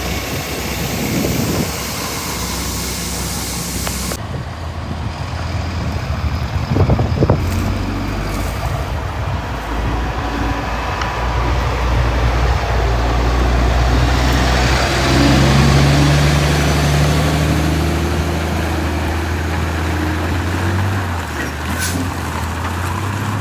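Heavy diesel machinery running: a steady, low engine hum that grows louder and rises a little in pitch about two-thirds of the way through, then eases back near the end.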